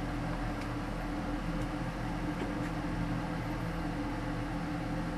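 Extractor hood fan running steadily: an even hum with a few fixed low tones under a hiss.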